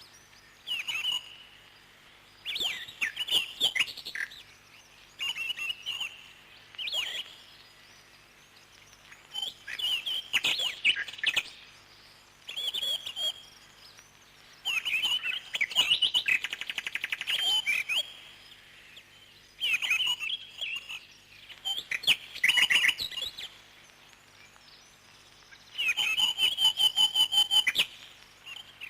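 Parrots chirping in short bursts every second or two, with fast rattling trills around the middle and again near the end.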